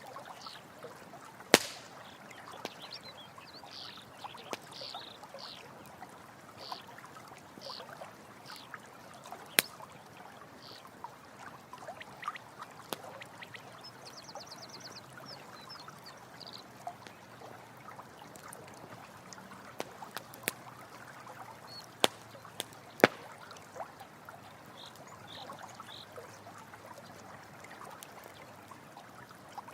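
Running stream water with a campfire crackling and popping in sharp, irregular snaps. Short high animal calls repeat through the first several seconds, with a quick high trill about halfway and a few more calls near the end.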